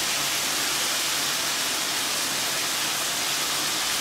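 Goat meat frying in hot oil in a pan: a steady sizzle.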